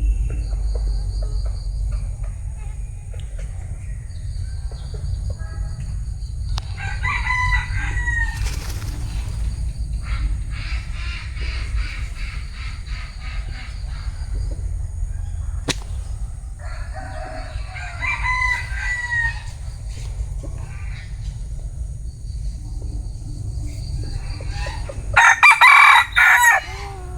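Bantam roosters crowing several times over a steady low rumble: one crow about seven seconds in, another about eighteen seconds in, and the loudest, closest crow near the end.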